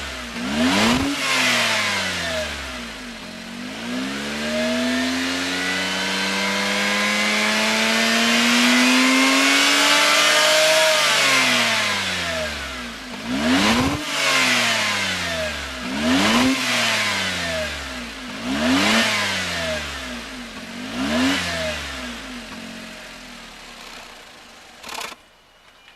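Daihatsu Taft Turbo's three-cylinder turbo engine revving through a Kakimoto GTbox 06&S aftermarket muffler. One quick blip, then a slow climb in revs held high for a few seconds before dropping back. Then four short, sharp blips about two and a half seconds apart.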